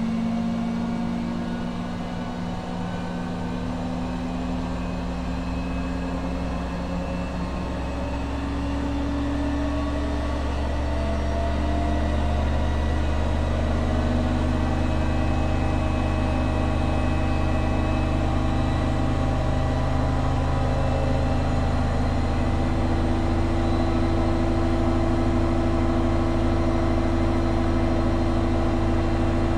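Two Schulthess washing machines, a Spirit topLine 8120 and an eMotion 7040i, spinning at the same time. Their motor whine and drum hum rise slowly in pitch and get a little louder over the first ten seconds or so, then hold steady.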